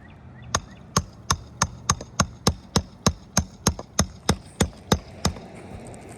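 A steady run of about sixteen hammer blows, roughly three a second, struck during an asphalt shingle repair; they stop about a second before the end.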